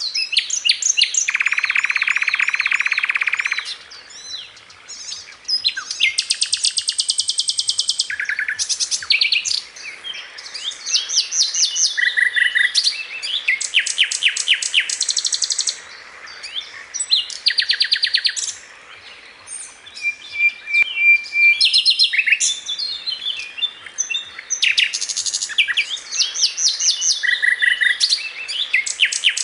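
Sikatan londo, a flycatcher kept as a songbird, singing vigorously: fast runs of repeated high notes and rattling trills in varied phrases, with short pauses between some of them.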